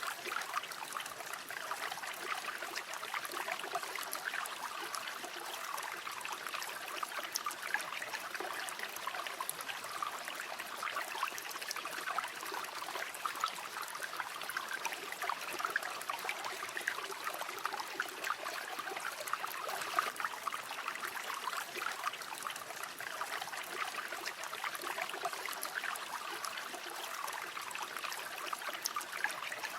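Flowing river: a steady rush of running water, full of small trickles and splashes.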